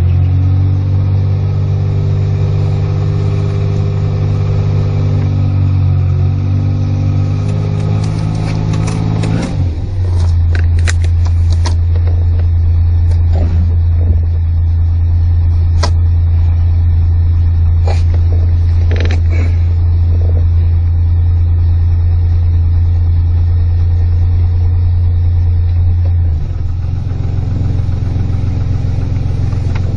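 Car engine fitted with a Motorcraft 2100 two-barrel carburettor, running steadily just after being started, heard from inside the cabin. Its low hum changes pitch at about nine seconds and again near the end, with scattered clicks in between.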